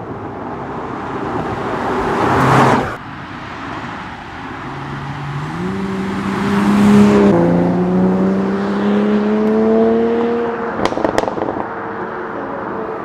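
Toyota GR Supra's 3.0-litre turbocharged inline-six. A pass with rising engine noise cuts off abruptly, then the engine climbs in pitch under acceleration, with one upshift about halfway. On lift-off near the end there are a few sharp exhaust crackles.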